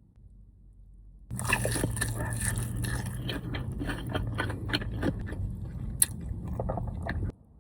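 Close-up crunching and chewing of crunchy fried food, many quick crackly bites and chews, starting suddenly about a second in and cutting off just before the end.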